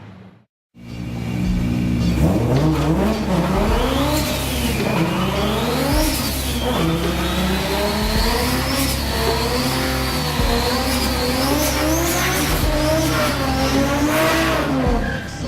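Turbocharged Toyota Supra engine revving hard, its pitch climbing and dropping again and again every second or two, with a high whine riding above that follows the revs.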